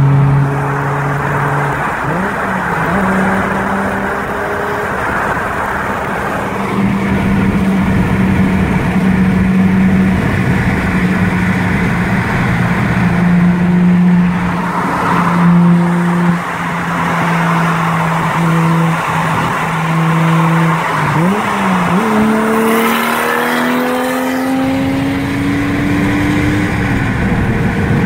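Nissan 240SX with a swapped 1JZ inline-six turbo engine, a Greddy T78 turbocharger and an open dump pipe, heard from inside a car alongside over wet-road tyre noise. The engine note shifts in pitch, then about 22 seconds in it climbs in a long rising pull with hissing turbo and dump-pipe noise, dropping off near the end.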